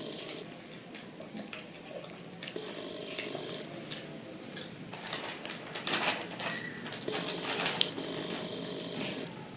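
Close-miked eating sounds: chewing fried chicken wings, with wet mouth clicks and smacks. The crackling gets busier and louder about five to eight seconds in.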